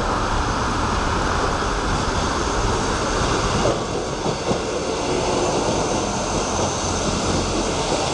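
South West Trains multiple unit approaching and running past underneath, a steady loud rumble of the train.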